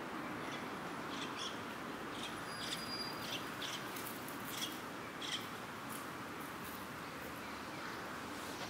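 Small birds chirping: about a dozen short, sharp chirps and a brief thin whistle, bunched in the first five seconds. Under them runs a steady outdoor background hiss.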